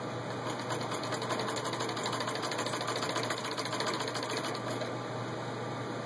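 1926 Singer 15-30 sewing machine, turned by a hand crank, stitching through six layers of denim: a rapid, even clatter of needle and mechanism that starts about a second in and stops near the end.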